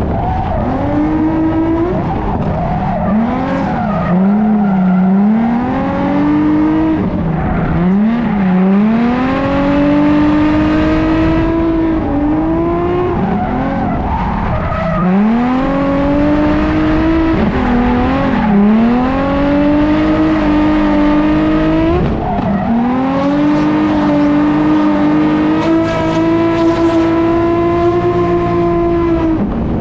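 Nissan 350Z's 3.5-litre V6 at hard throttle through a drift run, the revs dropping and climbing back again and again, then held high and steady for long stretches in the second half.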